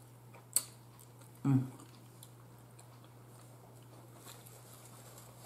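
A person eating chicken wings, with quiet chewing and mouth sounds, a sharp click about half a second in and a short louder mouth sound about a second and a half in. A steady low hum runs underneath.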